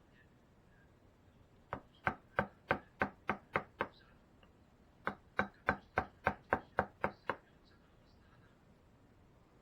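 A carving mallet striking a gouge into wood, in two runs of sharp, even taps about three a second: about eight strikes, a short pause, then about nine more.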